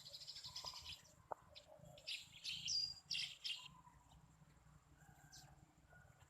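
House sparrows chirping: a fast chatter in the first second, then a cluster of louder chirps about two to three and a half seconds in, and fainter chirps after that.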